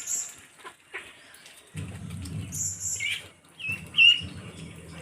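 Birds chirping: a few short, high chirps, with a louder pair of rising-and-falling calls about four seconds in. A low rumble runs beneath them from about two seconds in.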